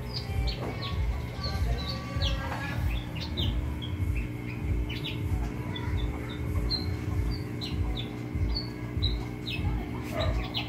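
Small birds chirping: many short, high chirps scattered throughout, over a low hum that throbs about two to three times a second.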